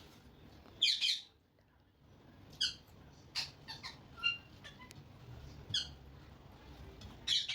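Pet parrot giving a series of short, high squawks, about a second apart.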